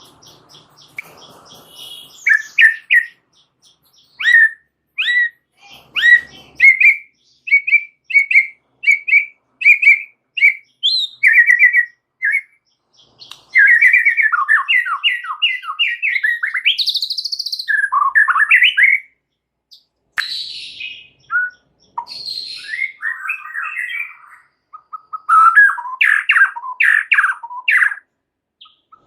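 A white-rumped shama (murai batu) singing vigorously with a full, varied repertoire. It gives clear whistled notes, first singly and then repeated about twice a second, then fast, varied warbling phrases broken by short pauses.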